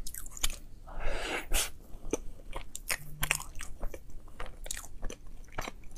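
Biting into and chewing a soft bread roll filled with chocolate sauce: a string of small mouth clicks, with a longer soft noise about a second in.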